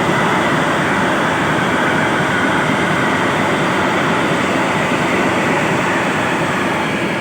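Freight train passing, a loud steady noise of its wagons running along the rails.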